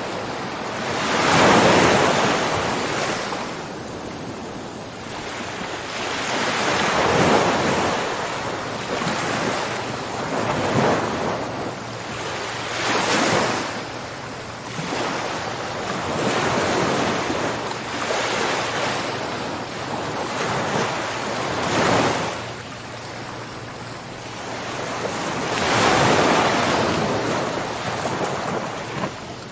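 Ocean waves breaking on a shore, each swell of surf rising and falling away over a few seconds, one after another.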